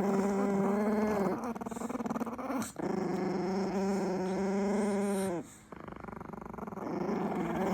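Chihuahua growling over its food: long, drawn-out growls, one breaking off with a sharp click about two and a half seconds in, a second stopping about five seconds in, and another building near the end.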